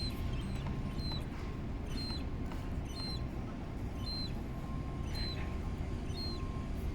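Young gull's short, high-pitched begging peep, repeated evenly about once a second, over steady low background noise.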